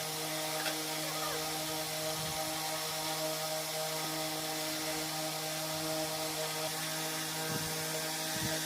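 A motor running at a steady speed, a constant even hum.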